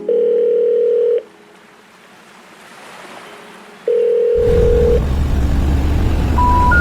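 Two long, steady electronic beeps about three seconds apart, the first about a second long. A loud, steady low rumble then starts, and near the end three short tones step upward in pitch like a chime.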